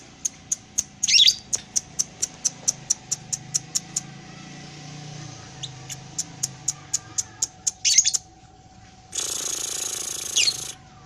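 Lovebird's 'ngekek' chatter: a long series of sharp, high chirps at about four a second, broken by brief pauses, with louder squeaky calls about a second in and again around eight seconds. Near the end comes a harsh, rasping burst of about a second and a half.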